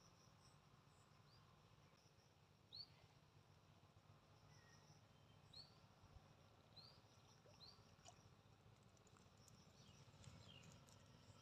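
Near silence outdoors, with a handful of faint, short, high bird chirps every second or two over a low steady hum.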